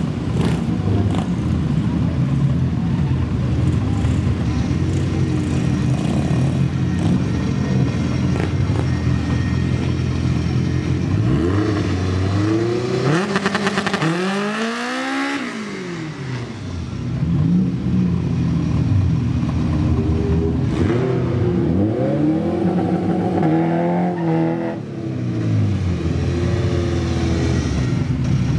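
Honda Civic hatchback drag cars' four-cylinder engines idling and being revved while staging. The pitch climbs and falls in several sweeps, with one big rev in the middle and a cluster of shorter blips later.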